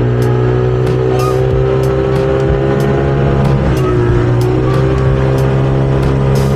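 Small outboard motor running steadily at speed on a small fiberglass boat, its pitch dipping briefly about four seconds in, with irregular short ticks above the engine note.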